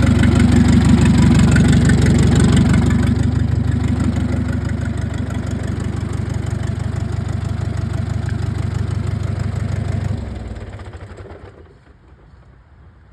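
Fendt tractor's diesel engine running, easing down slightly about three seconds in, then shut off about ten seconds in and running down to a stop.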